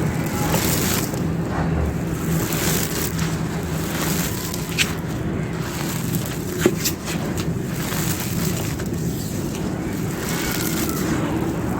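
Dry clay being crumbled and crushed by hand: a continuous gritty crunching that swells and eases, with two sharper cracks around the middle, over a steady low rumble.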